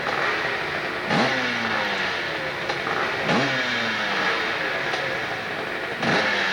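Motorcycle engine revved in repeated blips, roughly every two to three seconds. Each time the pitch rises quickly, then falls slowly away.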